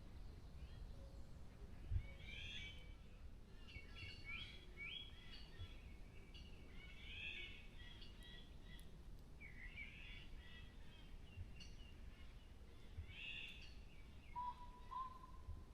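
Faint forest birdsong: several songbirds sing short chirping phrases, repeated and overlapping, with one steady low whistle near the end. A low rumble runs underneath, and there is a single soft thump about two seconds in.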